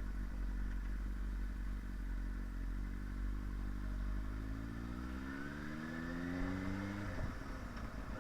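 Yamaha R1 sportbike's inline-four engine running under way at a steady speed, then revs rise smoothly for about four seconds before dropping sharply a little after seven seconds in and settling steady again.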